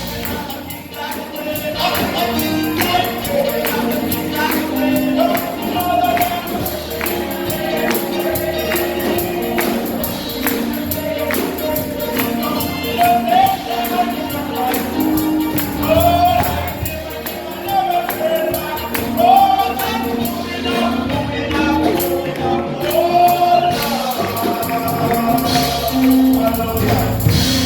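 Gospel song sung by a choir of voices, with a tambourine keeping a steady beat and instruments accompanying.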